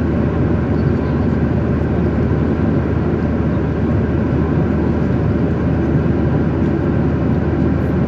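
Steady engine and airflow noise of a jet airliner in flight, heard from inside the passenger cabin.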